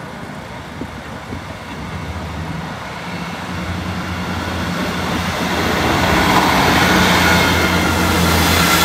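Class 158 diesel multiple unit approaching and passing over a level crossing: its diesel engines run steadily under the rising rumble of wheels on rail, growing louder as it draws close and passes.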